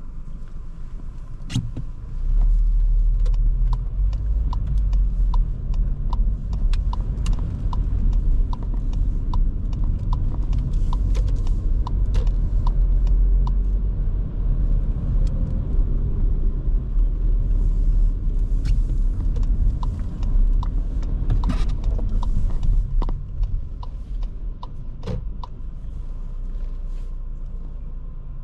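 Škoda Kamiq's 1.0 TSI three-cylinder turbo petrol engine and tyre rumble while driving. The rumble steps up about two seconds in as the car pulls away, holds steady, and eases off near the end, with scattered short clicks and ticks over it.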